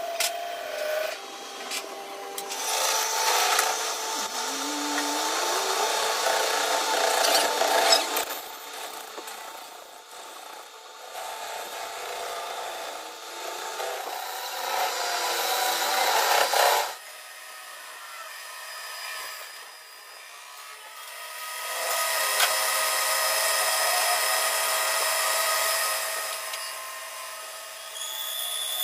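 Power tool working metal on a heavy-machinery gear being repaired, a rasping, grinding noise that comes in stretches, dropping back for a few seconds past the middle before picking up again.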